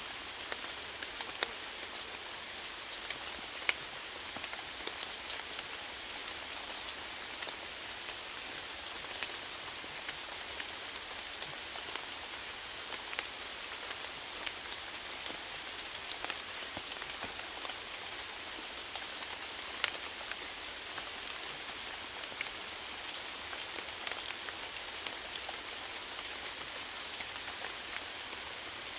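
Steady rainfall: an even hiss of rain, with individual drops landing in scattered sharp taps, a few louder ones standing out.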